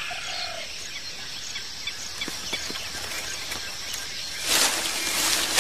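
Forest ambience: a steady insect drone with scattered bird chirps, and a brief louder rush of noise about four and a half seconds in.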